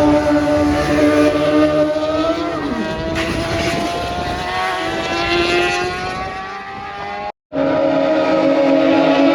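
Several racing superbikes at high revs, their engine notes layered; one bike's note drops in pitch as it passes about two and a half seconds in. The sound cuts out briefly near the end and resumes with engines running again.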